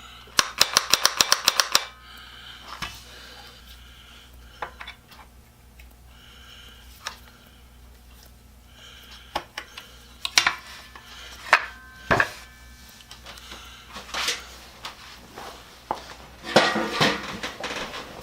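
Clicks and clatter of hard objects being handled: a quick run of about a dozen sharp clicks near the start, then scattered knocks, some with a short ring, and a cluster of clicks near the end.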